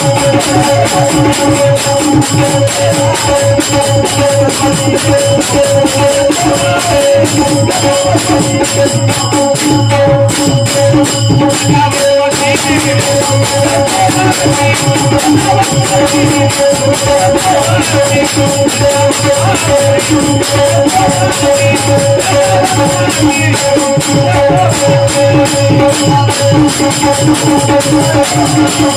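Devotional bhajan music: steady held tones under a constant jingling, rattling percussion beat, with little or no singing.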